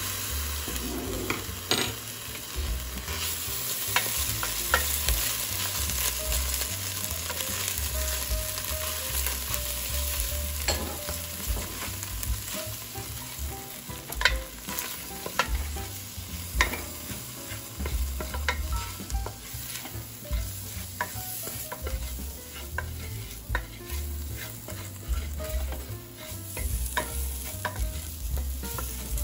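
Diced onion and vegetables sizzling in a stainless steel pot while a wooden spoon stirs and scrapes them around, with frequent sharp clicks of spoon against the pot.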